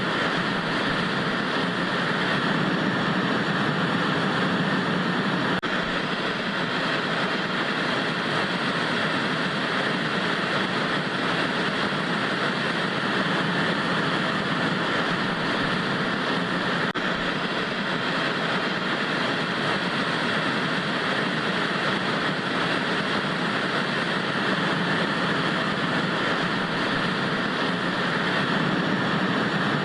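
Analogue TV static: a steady, unbroken hiss of white noise.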